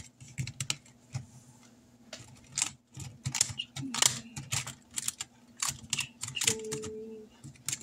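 Irregular small clicks and taps from handling things at a tabletop, several a second, with brief pauses between.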